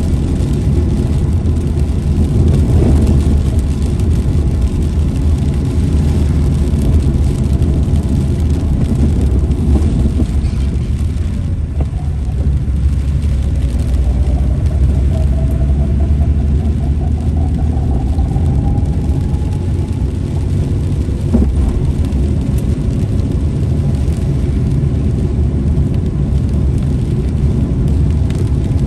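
Steady low rumble of a car's engine and road noise while driving, with a faint tone that climbs slowly through the middle and a couple of brief knocks.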